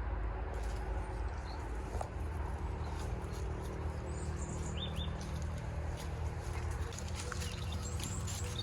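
Steady low rumble of outdoor ambience, with a few short high chirps of small birds about halfway through and again near the end.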